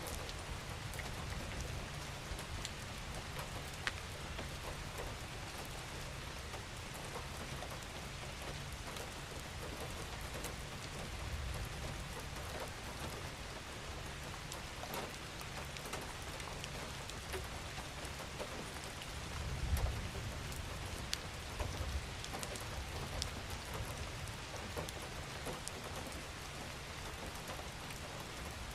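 Steady gentle rain, with many individual drops ticking on a surface. A low rumble runs underneath and swells briefly about two-thirds of the way through.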